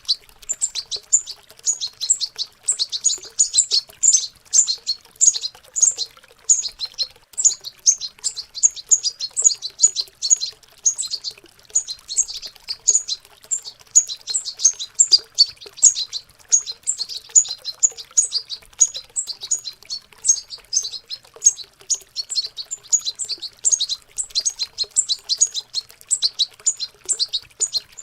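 Young European goldfinches twittering in a fast, continuous stream of high chirps: the rambling subsong of juvenile birds learning to sing. Faint running water lies underneath.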